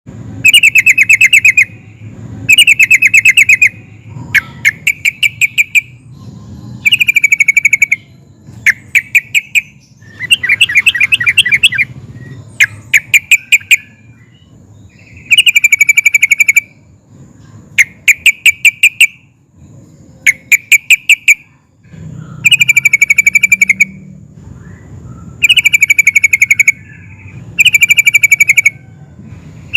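Yellow-vented bulbul singing loudly. Phrases of quick, bubbly rolling notes, each lasting one to two seconds, come again every couple of seconds, and some are delivered as short fast trains of separate notes.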